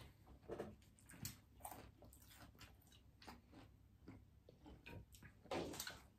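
Faint chewing and small wet mouth clicks of people eating fried chicken, with a slightly louder mouth sound near the end.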